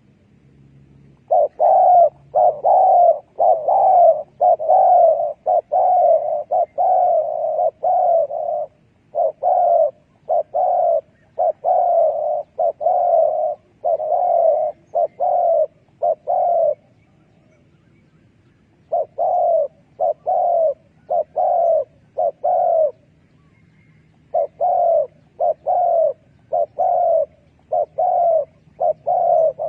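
Spotted dove cooing in long runs of short, evenly repeated coos, about two a second, with two pauses of a second or two partway through.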